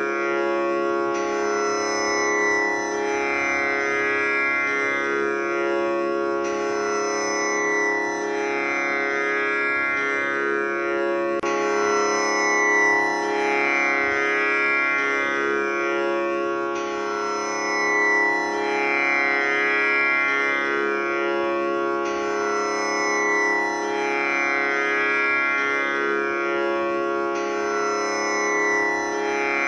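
Tanpura drone tuned to C#, its strings plucked one after another in an unbroken repeating cycle, a new round about every five and a half seconds, each pluck sustaining with rich overtones.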